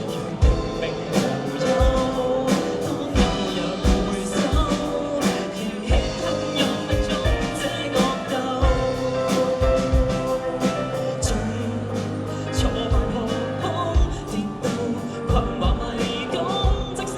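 Live band playing an instrumental passage of a Cantonese pop-rock song, with a steady drum beat under bass and sustained guitar or keyboard lines.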